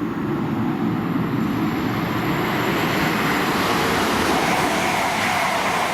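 A train passing through the station, its rushing wheel and air noise swelling steadily to a peak near the end and then starting to ease.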